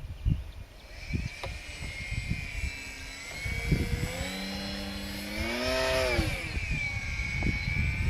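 RC model airplane's motor whining overhead, its pitch rising and then falling in the middle as it speeds up and passes. Gusts of wind buffet the microphone throughout.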